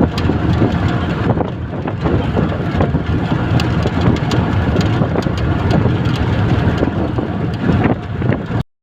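Steady vehicle running noise, a dense rumble with wind buffeting the microphone and scattered light clicks, cutting off suddenly near the end.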